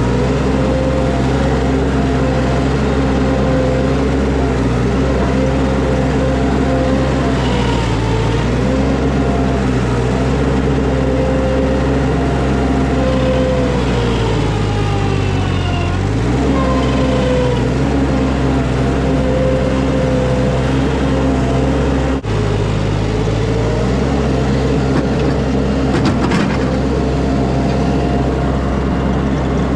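Skid steer engine running steadily at high revs, its pitch sagging and recovering several times as the machine takes load while digging.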